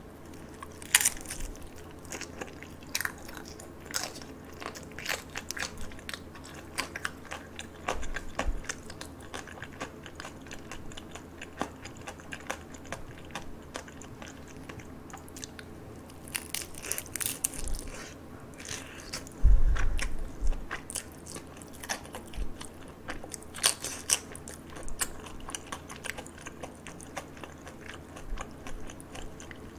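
Close-miked biting and chewing of crispy fried dumplings: a run of small crunches and crackles with mouth sounds. A single low thump about two-thirds of the way through is the loudest sound.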